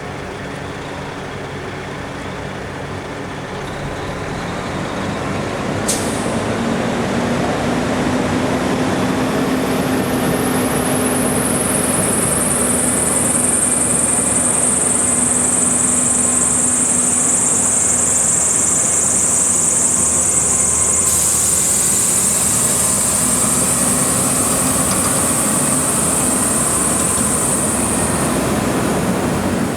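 Diesel engine of a 1995 Ford AeroMax L9000 truck running, growing louder over the first several seconds. A steady high whine runs alongside it from about ten seconds in until near the end.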